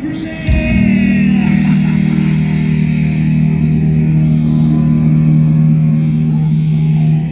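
Live band playing rock music, with a guitar chord held steady for several seconds.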